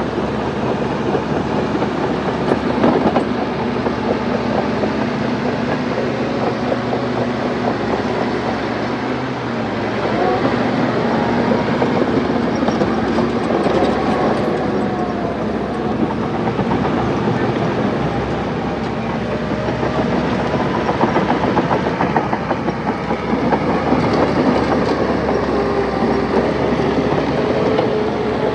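Bulldozer working: its diesel engine runs under load while the steel tracks clatter steadily, with the engine note rising and falling.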